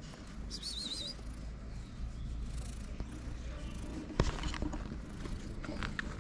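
Small birds chirping, with a brief warbling trill about a second in and a few short chirps near the end, over a steady low outdoor rumble. A single sharp click about four seconds in is the loudest sound.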